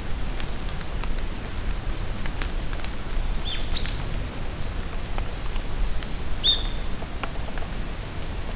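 Steady rain falling in a forest with scattered drips, while a few birds give short calls: a quick rising whistle about halfway through, a high chattering trill just after, and another whistled call a little later.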